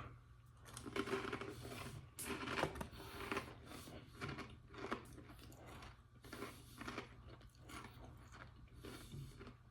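A person biting into and chewing crunchy, crouton-like Mochi Thai Bird Sriracha snack bites, with irregular crunches that are busiest in the first few seconds.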